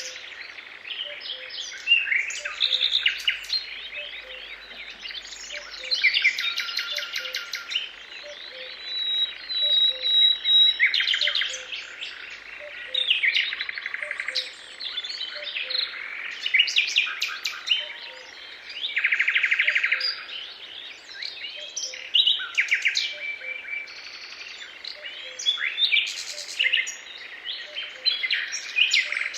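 Several songbirds singing at once, a dense mix of overlapping chirps, rapid trills and whistles. Underneath, a soft low note repeats about once a second.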